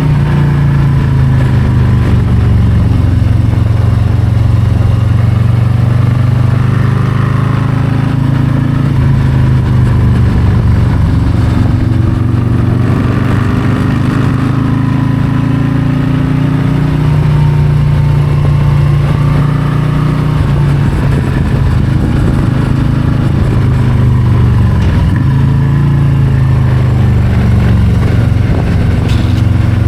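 Harley-Davidson Low Rider ST's Milwaukee-Eight 117 V-twin running under way, its note repeatedly rising and falling as the rider accelerates and eases off.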